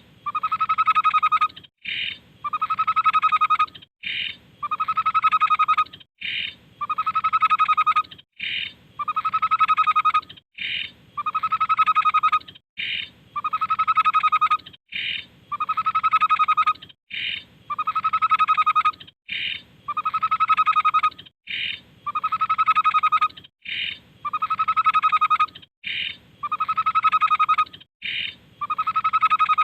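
Tepus babbler song from a masteran training recording: a long, rapid trilled note followed by a short higher note, repeated at an even pace about every two seconds.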